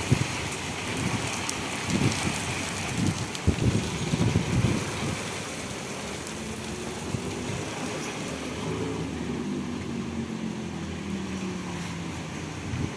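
Heavy rain falling steadily, with wind gusting on the microphone in the first few seconds. About halfway through a vehicle's engine hum comes in, slowly dropping in pitch, and fades out near the end.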